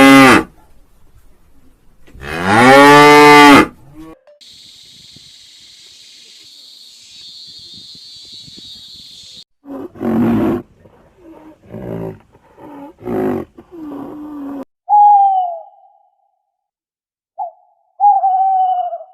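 A run of different animal calls one after another: two long, loud calls that rise and fall in pitch, a few seconds of high hissing buzz, a quick series of short calls, then two high calls that fall in pitch near the end.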